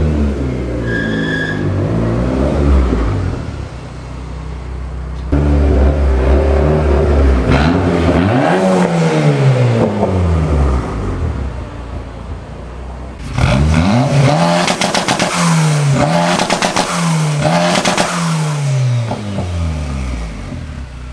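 Turbocharged K24-swapped Toyota MR2 Spyder engine revving as the car accelerates and drives past, its pitch climbing and dropping again several times. The sound jumps suddenly about five and thirteen seconds in, where separate passes are joined.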